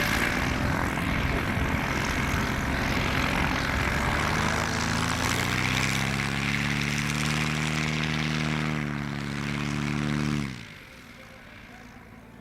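Propeller aircraft's piston engine running loud, its note rising about four seconds in and then holding steady at high power. The sound drops away suddenly about ten and a half seconds in.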